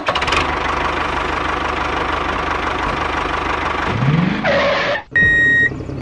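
Diesel tractor engine running steadily with a fast knocking beat. About five seconds in it breaks off and a high electronic beep sounds once.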